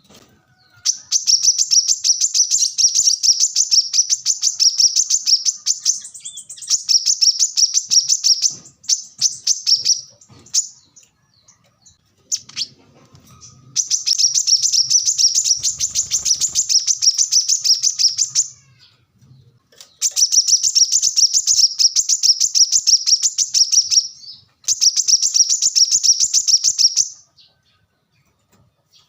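Brown-throated sunbird (kolibri kelapa) singing in long bouts of very rapid, high-pitched twittering, each lasting several seconds, with short pauses between them.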